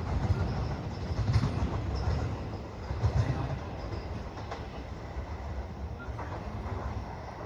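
Electric train running on the rails through the station: a low rumble with irregular wheel clatter. It eases off after about three and a half seconds.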